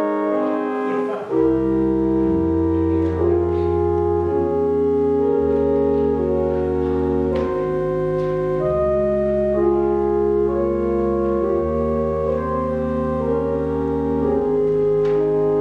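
Church organ playing a slow prelude in sustained chords, with deep bass notes coming in about a second in and the chords changing every second or two.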